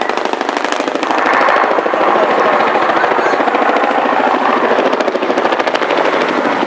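Boeing Chinook tandem-rotor helicopter's blades slapping in a rapid, even chop, growing louder about a second in.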